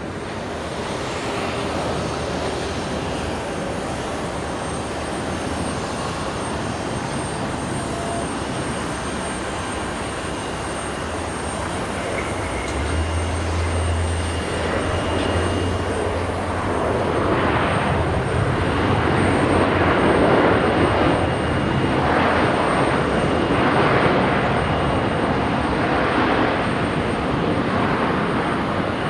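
Jet airliner's engines as the plane passes, a steady roar that swells about halfway through and stays loud, wavering, to the end.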